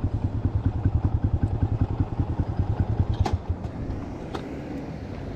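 Vehicle engine idling with an even pulsing beat, about nine beats a second, switched off about three seconds in; a sharp click comes as it stops and another about a second later.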